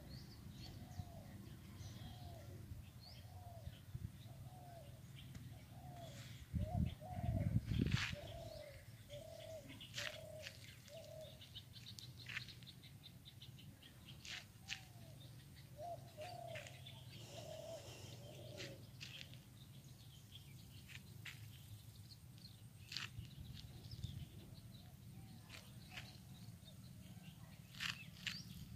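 Birds calling among trees: one bird repeats a short low note about twice a second, in runs of several seconds, while other birds give sharp high chirps. A brief low rumble about seven seconds in.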